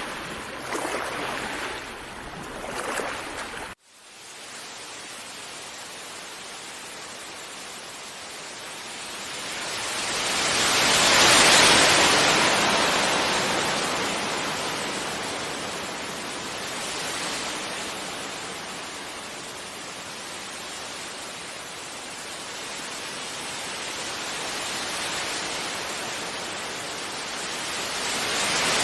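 Gentle ocean waves washing onto a beach: a steady surf hiss that swells into a wave breaking about eleven seconds in and slowly ebbs away, with the next wave building near the end. The sound drops out abruptly for an instant about four seconds in.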